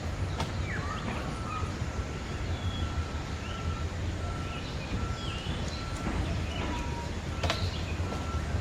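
Many birds chirping and twittering in a bird park, over a low steady rumble. One note repeats evenly, about one to two times a second. There is a sharp click near the end.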